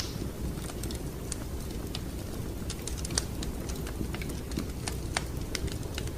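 Wood fire crackling: irregular sharp snaps and pops, a few each second, over a steady low rumble. A louder pop comes about three seconds in and another about five seconds in.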